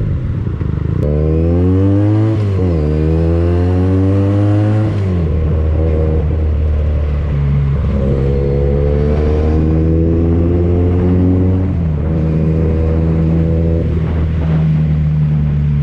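Benelli TNT 249S motorcycle engine through a Tridente F22 carbon aftermarket exhaust, accelerating under way. In the first five seconds it revs up quickly twice, with a sudden pitch drop at each upshift. It then pulls more slowly, rising in pitch with two more upshifts.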